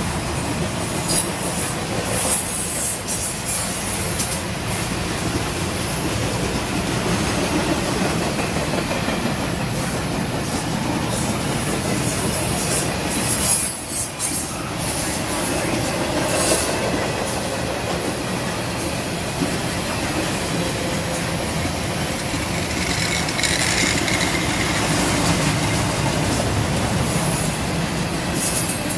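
Norfolk Southern intermodal freight train rolling past at trackside: the steady rumble and clatter of steel wheels on rail under flatcars carrying highway trailers and double-stack containers. Short high-pitched wheel squeals and screeches break through every few seconds.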